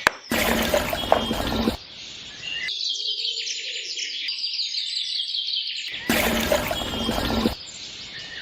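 Small birds chirping rapidly and repeatedly in a high register for a few seconds. This is framed by louder, noisy passages that start and stop abruptly near the beginning and again about six seconds in.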